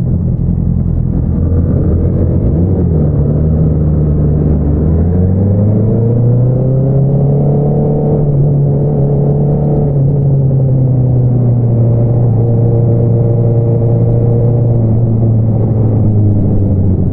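2022 Honda CBR650R's inline-four engine running through an Akrapovič single-outlet exhaust under way. The revs climb from about three seconds in, hold, then ease down slowly with a slight drop near the end.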